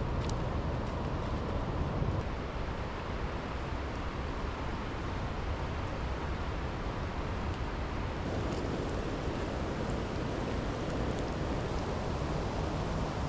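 Steady hiss of rain falling, with a low rumble of wind on the microphone and a few faint drop ticks.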